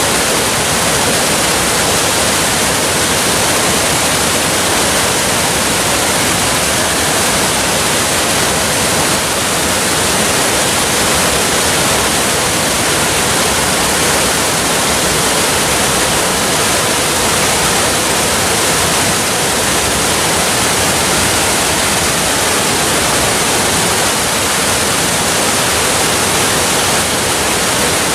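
Waterfall: falling water rushing in a steady, unbroken wash, with no drips, splashes or changes in level.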